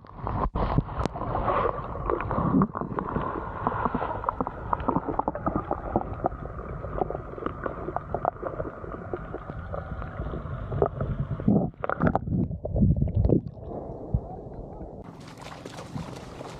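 Muffled sloshing and gurgling of sea water with many small knocks. About fifteen seconds in, the sound opens up into clear surf and wind.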